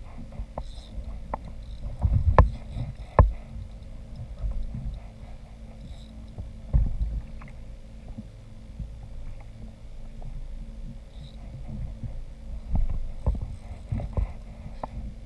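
Irregular knocks and bumps on a fishing kayak over a steady low rumble, the loudest knocks about two and three seconds in.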